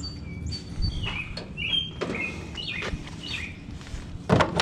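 Birds chirping in short repeated calls, with a few light knocks in between, the loudest near the end.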